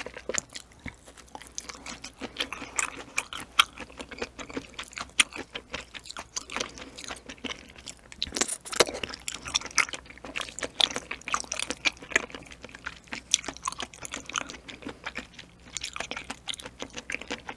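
Close-miked ASMR chewing of soft, springy ocean sunfish jelly (gaebokchi-muk), full of small, irregular wet mouth clicks and smacks, with a sharper bite about eight seconds in.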